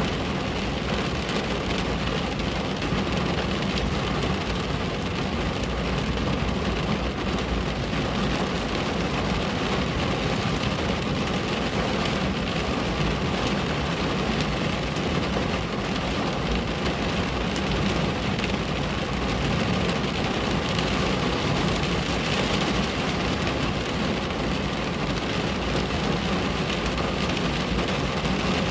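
Steady rain falling on a window pane, an even patter with a low rumble underneath.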